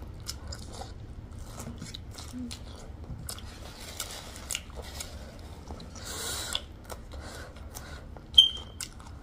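Close-up eating sounds: chewing with many small wet clicks, and two longer airy noises about four and six seconds in. A brief sharp ringing tone about eight seconds in is the loudest moment.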